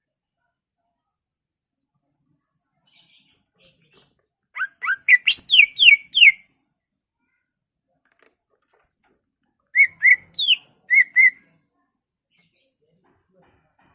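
Cucak ijo (green leafbird) singing: a quick run of about eight sharp whistled notes sliding up and down, then after a pause of about three seconds a shorter phrase of about six notes. A few faint chirps come just before the first phrase.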